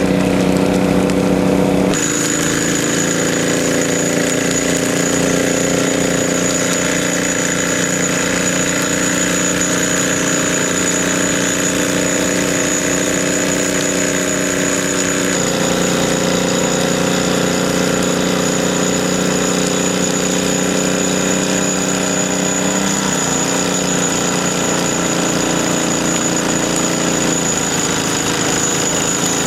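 A small engine running steadily, its pitch shifting slightly a few times, with a thin high whistle over it.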